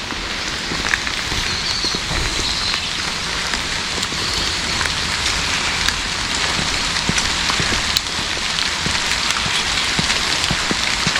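Heavy rain pouring steadily, a dense hiss scattered with many small drop ticks.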